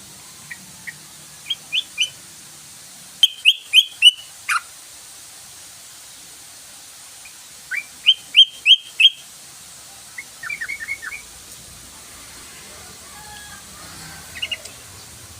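Yellow-vented bulbul (trucukan) calling in short bursts of quick, sharp chirping notes, several phrases separated by pauses of a few seconds; the loudest runs of about five notes come about three and a half and eight seconds in.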